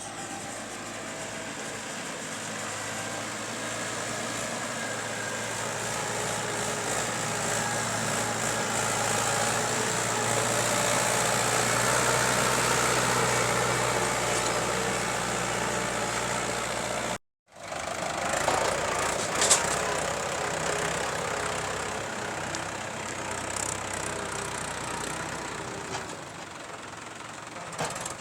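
Heavy diesel machinery engine running steadily and growing louder over the first dozen seconds. The sound drops out for a moment about seventeen seconds in, then the engine continues with a few sharp knocks.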